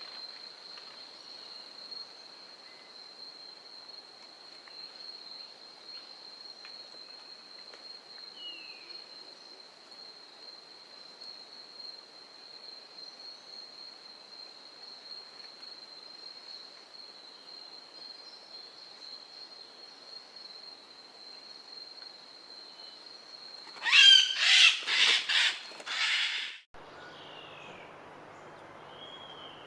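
Forest ambience: a steady high-pitched drone, typical of a calling insect, runs under faint scattered bird chirps. About 24 seconds in, a bird gives a quick series of about five loud calls. The sound then cuts off abruptly to quieter background with a low hum.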